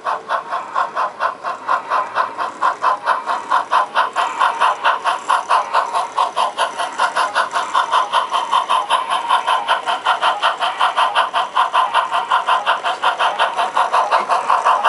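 Sound-equipped HO scale steam locomotive chuffing in quick, even exhaust beats as it pulls the front half of a split train up a grade.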